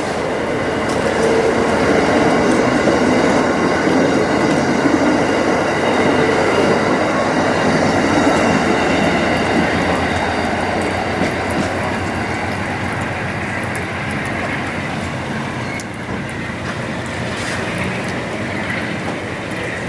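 Amtrak passenger train rolling past: diesel locomotive and cars with wheels on the rails, plus steady high-pitched wheel squeal. It swells over the first couple of seconds, stays loud for several seconds, then slowly fades as the train moves off.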